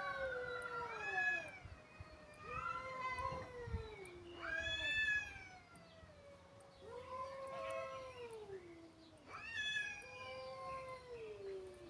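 Cats yowling at each other in long, drawn-out wails, about five of them, each rising then sliding down in pitch, two voices overlapping near the start.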